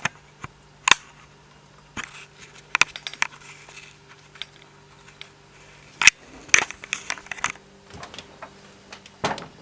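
Irregular crinkling, clicks and light knocks of things shifting about inside a refrigerator, with a few sharper clicks scattered through, over a steady low hum.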